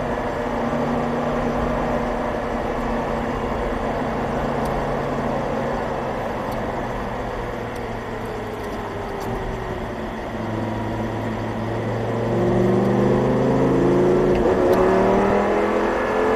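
Audi R8 V10 engine heard on board at track speed. Its note falls slowly as the car eases off for the first ten seconds or so, then climbs in pitch and gets louder as the driver accelerates again near the end.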